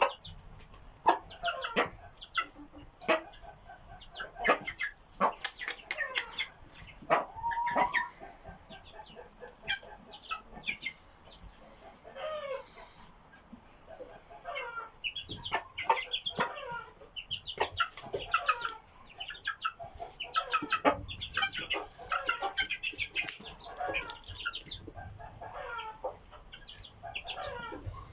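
Asil game-fowl chicks (Indian Parrot Beak crossed with Brazilian) peeping over and over in short high chirps, with some lower clucking calls and scattered sharp clicks among them.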